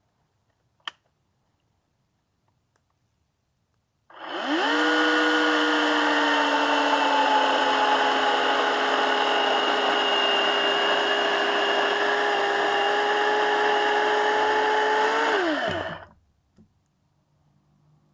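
Chainsaw bucking firewood, running at a steady high speed for about twelve seconds, then cutting out with a falling pitch. There is no idling before or after it, and a single sharp click comes about a second in.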